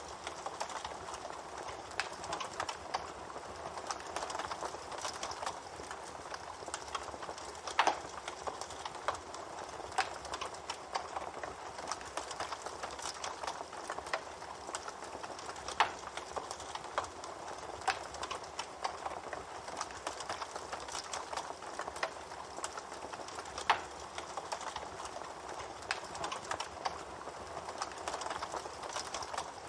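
Wood fire crackling steadily with small snaps, and three louder pops, the first about eight seconds in.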